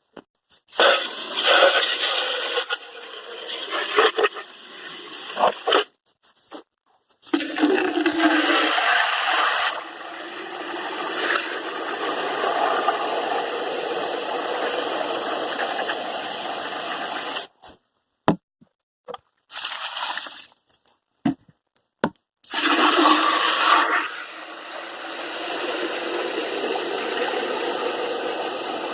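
Garden hose spraying water in several long bursts, shut off briefly between them.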